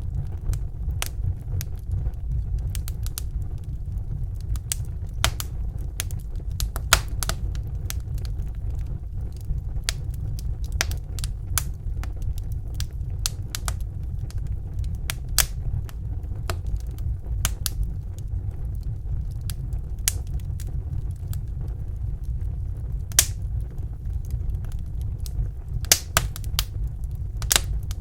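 Wood fire in a fireplace crackling, with irregular sharp snaps and a few louder pops over a steady low rumble.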